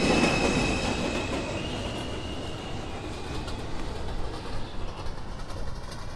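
New York City Subway train running out of the station: a steady rumble with high, steady whining tones in the first few seconds, growing slowly quieter as it goes.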